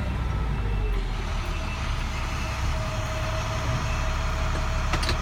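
International DT466 inline-six diesel engine of a 2007 International 4300 truck running, a steady low rumble.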